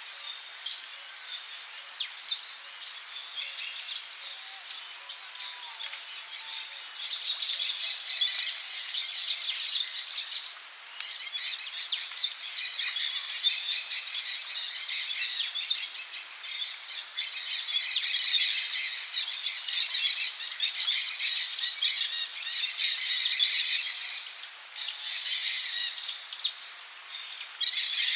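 Tropical rainforest ambience: a steady high insect drone with a dense chatter of quick chirps from insects and birds, growing busier about seven seconds in.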